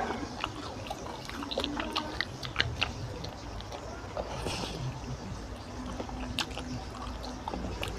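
Close-miked chewing of oily mutton fat curry and rice, with wet mouth clicks and lip smacks coming irregularly, several a second at times.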